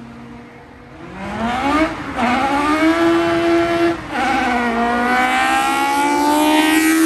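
Honda Civic EK hatchback's tuned, 300+ horsepower four-cylinder engine at full throttle, revving higher and higher through the gears. It starts about a second in and shifts up quickly about two and four seconds in, each shift followed by another rising rev.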